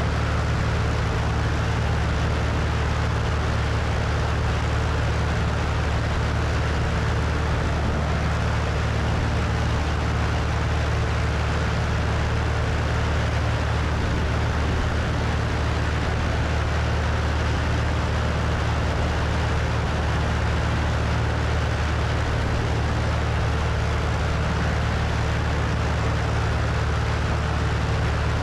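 Cessna 172's piston engine and propeller droning steadily in flight, mixed with wind rushing over a wing-mounted microphone.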